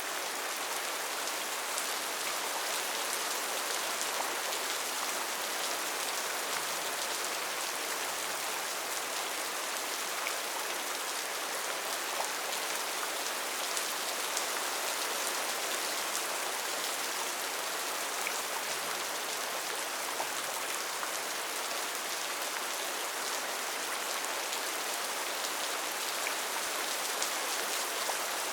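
Steady rain falling and pattering on surfaces, a dense even hiss of many small drops.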